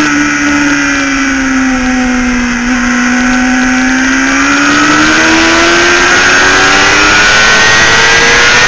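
Motorcycle engine at high revs, heard from on board with wind rushing over the microphone: its pitch sags a little mid-corner, then climbs steadily as the bike accelerates out of the corner.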